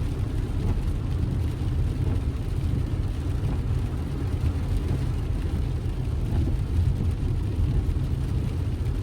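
A car driving at steady speed: a continuous low rumble of engine and road noise.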